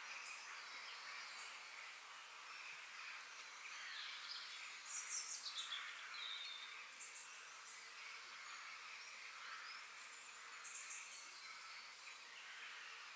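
Outdoor birdsong ambience: small birds chirping with short, high calls over a steady background hiss of distant birds and insects. The loudest chirps, some falling in pitch, come in a quick cluster about five seconds in.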